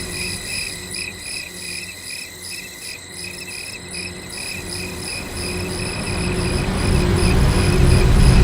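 Cricket chirping, evenly repeated high chirps about three times a second. A low rumble swells steadily louder through the second half.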